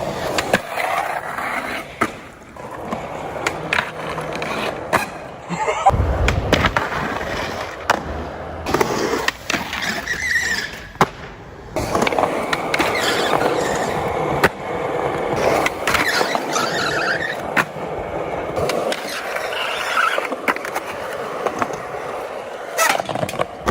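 Skateboard wheels rolling, with frequent sharp clacks as boards pop and land. The sound changes abruptly several times as one run gives way to another.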